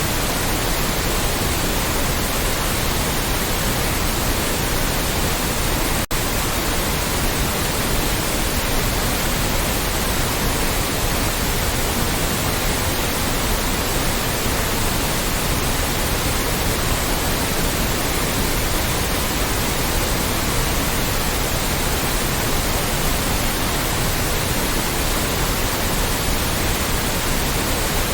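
Loud, steady white noise, an even hiss across all pitches, with a split-second dropout about six seconds in.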